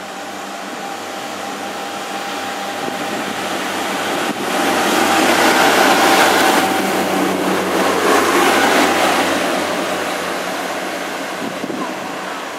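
Pacer diesel railbus passing close by: the engine and wheels on the rails grow louder as it approaches, peak as it goes past about halfway through, then fade as it pulls away, with a steady whine early on and a single knock about four seconds in.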